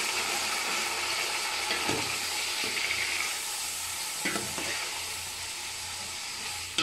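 Chopped tomatoes, green chillies and browned onions sizzling in hot oil in an aluminium pot as a metal ladle stirs them, with a few knocks of the ladle against the pot.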